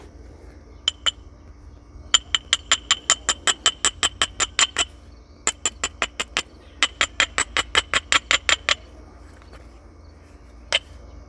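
A stone tool works the edge of a flint biface in quick, short strokes, about six a second, in three runs, with a few single strokes around them. This is the kind of rapid edge work done to prepare a striking platform between flake removals.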